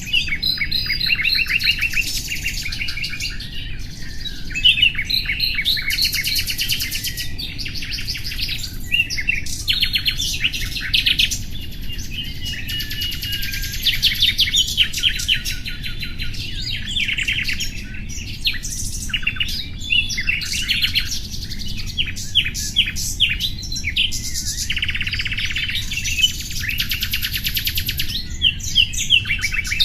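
Nightingale singing a continuous, varied song of rapid repeated notes, trills and whistles, phrase after phrase with brief pauses.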